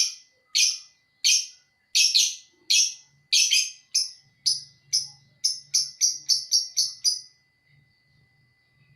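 Lovebird ngekek: a long run of harsh, shrill chirps, starting at about one and a half a second and speeding up to three or four a second before stopping shortly before the end. A faint steady high tone runs underneath.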